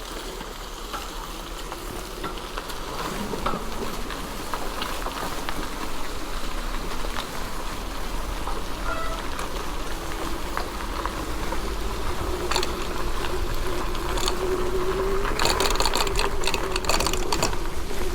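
Electric bike riding uphill on a trail: tyre and rattle noise, with a steady electric-motor whine that comes in about halfway and grows louder, and a burst of clattering near the end.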